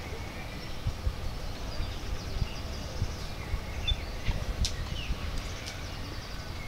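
Small birds chirping on and off, with a quick run of high chirps about four to five seconds in, over an irregular low rumble.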